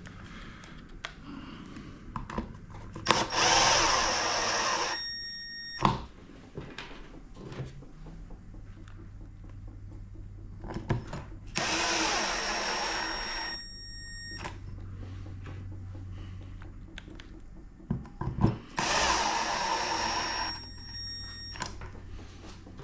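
Power drill or driver run three times for about two seconds each, its motor whine dying away after each release, with scattered clicks and knocks of parts and tools handled between the runs.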